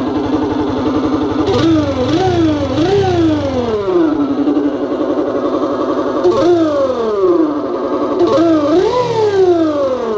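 Big-bike sound effects unit on a Suzuki Thunder 125 playing a simulated large-motorcycle engine through its speaker. It idles steadily, with the revs rising and falling back several times: three quick blips early on, one near the middle, and two near the end.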